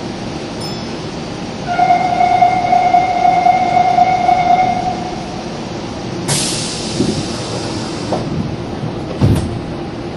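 Electric train at a station platform. A steady squeal lasts about three seconds, then a sudden hiss of compressed air dies away, and there is a low thump near the end.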